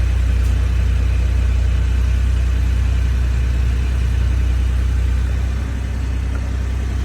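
1991 Honda Acty Street's small three-cylinder engine idling steadily in neutral shortly after a cold start, running smoothly with a steady low hum.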